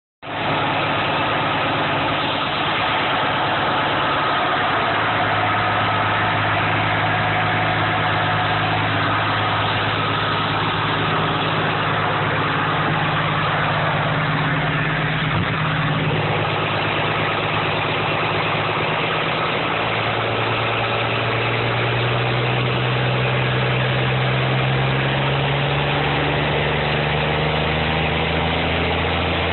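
An engine idling steadily on a first start-up, its idle speed rising a little about twenty seconds in.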